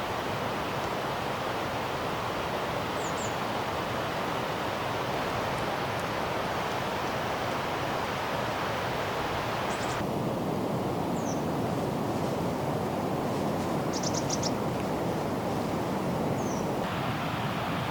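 Steady rushing outdoor noise, its tone changing abruptly about ten seconds in and again near the end, with a few faint high chirps and a brief patter of clicks.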